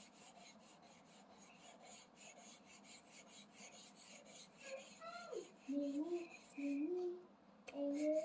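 Quiet rapid scratching of a colouring crayon or marker being scrubbed back and forth on paper. About five seconds in, a child starts humming a short wavering tune over the scribbling.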